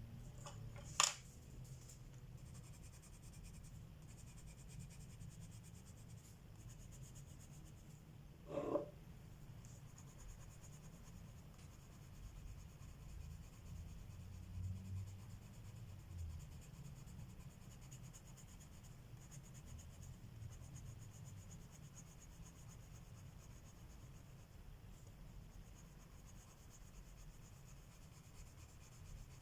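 Colored pencil shading on paper, a faint steady scratching. A sharp click about a second in and a knock near the 9-second mark.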